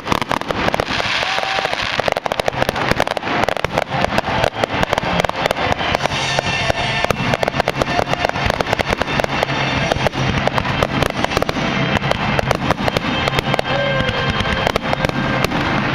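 Fireworks going off in a rapid, continuous barrage of overlapping bangs and crackles, many per second. Music plays underneath.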